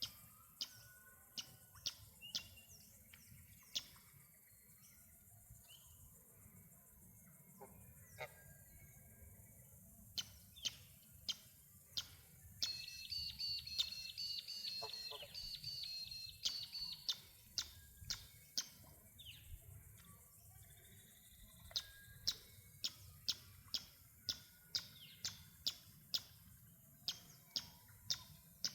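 Birds chirping outdoors: many short, sharp chirps at irregular intervals, with a run of high, evenly repeated song notes lasting about four seconds near the middle.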